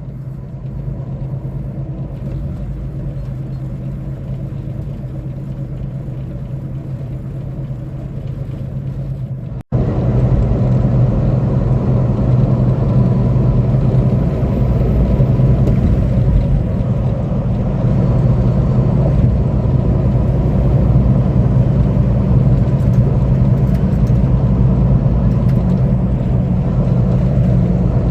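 Semi-truck's diesel engine running steadily with road noise inside the cab. The sound cuts out abruptly about ten seconds in and comes back louder.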